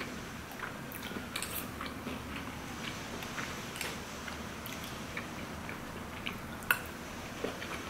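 Close-up chewing with scattered small clicks of a fork and knife against a plate, and one sharper click near the end.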